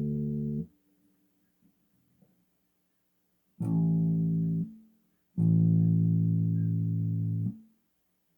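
Electric bass guitar sounding long, low notes: three held notes, each stopped short, the last held for about two seconds.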